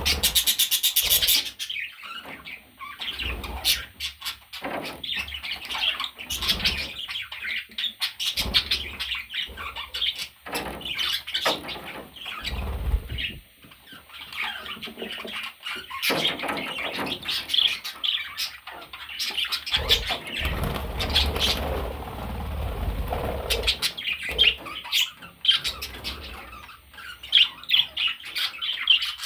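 Budgerigar chirping and chattering in a fast, continuous warble of short high chirps and clicks, with a few low rumbling bumps along the way.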